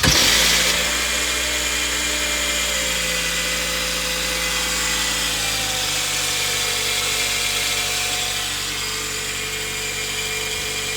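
Toyota Camry's 2.5-litre 2AR-FE four-cylinder engine catching just as it is started, then idling steadily; the idle pitch eases down slightly about five or six seconds in.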